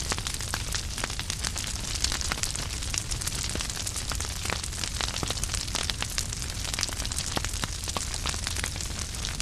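Wood fire burning in a fireplace: logs crackling and popping with many sharp irregular snaps over a steady hiss and low rumble of the flames.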